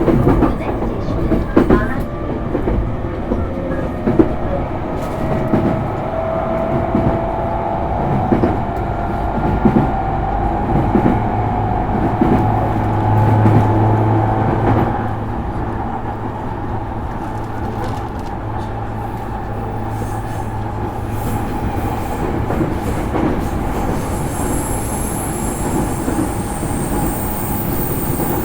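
JR East E231 series electric train heard from inside a motor car: the traction motor whine rises slowly in pitch as the train accelerates, with wheels clicking over rail joints. About halfway through the rising whine stops and the train runs on with steady rolling noise.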